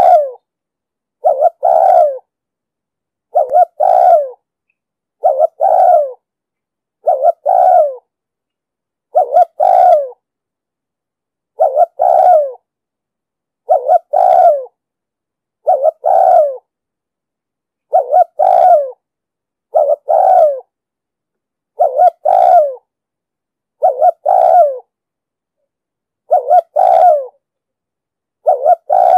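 Spotted dove cooing: short phrases of two or three coo notes, repeated about every two seconds with silence between, the rapid 'thúc gù' cooing used to lure and rouse doves.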